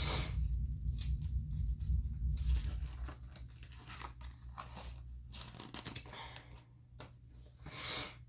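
Crinkling, rustling and tearing of LOL Surprise doll packaging being handled and opened, with scattered small clicks and taps. Busier and louder for the first three seconds or so, then quieter, with a brief rustle near the end.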